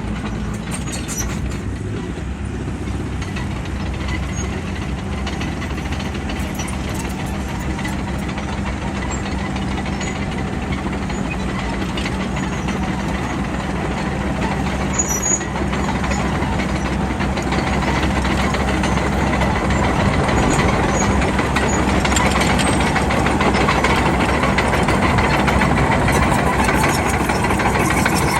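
Bulldozer's diesel engine running steadily, getting somewhat louder through the second half.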